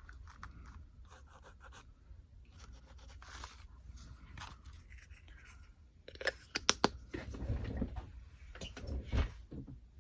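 Faint scratching and rubbing as acrylic paint is worked onto a paper journal page, with a few sharp clicks about six to seven seconds in.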